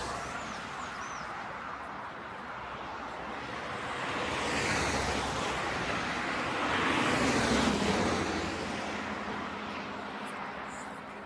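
Road traffic: vehicles passing one after another, each swelling and fading, with the loudest pass about seven to eight seconds in.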